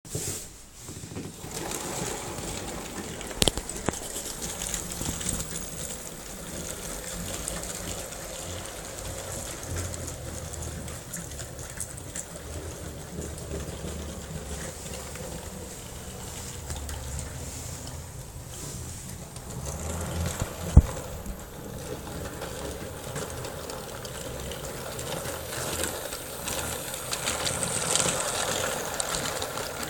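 Plastic model electric locomotive running on its track under its own 280-size DC motor on two AA batteries, its driving wheels wrapped in rubber: a steady whirr of motor and gears with wheel rattle. A sharp click comes a few seconds in and another about two-thirds through, and the running grows louder near the end.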